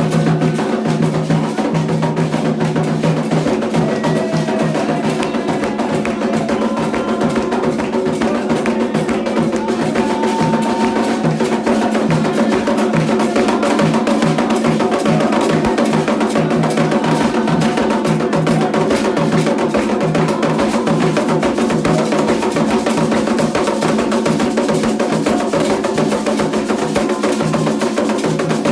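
Candomblé ritual drumming: atabaque hand drums playing a fast, steady rhythm, with a wood-block-like percussive beat over them.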